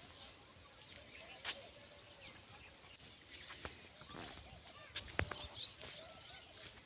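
Faint outdoor background with scattered chirping calls and a few sharp clicks; the loudest click comes about five seconds in.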